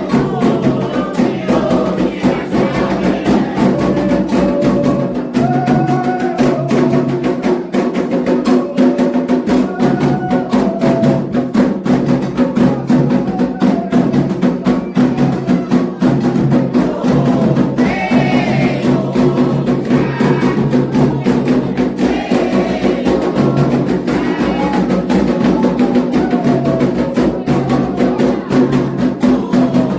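Candomblé ritual music: atabaque hand drums playing a fast, dense rhythm with a sharp struck bell or block marking the beat, and voices singing over them.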